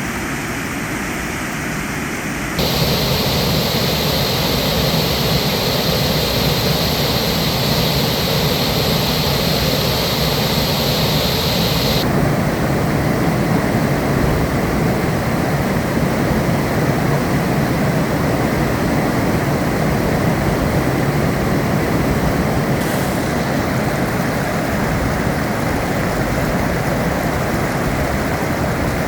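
Roar of the Devil's Kettle waterfall on the Brule River: a loud, steady rush of falling water. Its tone shifts abruptly three times, about three, twelve and twenty-three seconds in.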